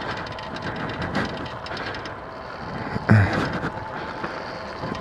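X Pro dirt bike riding along a trail, its running gear rattling steadily, with one sharp low thump about three seconds in.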